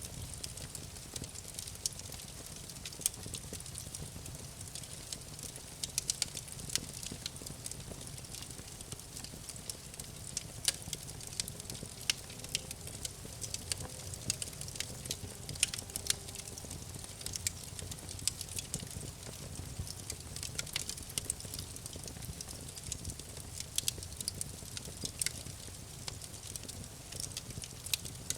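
Campfire crackling: irregular pops and snaps of burning wood, some sharper than others, over a steady low rumble.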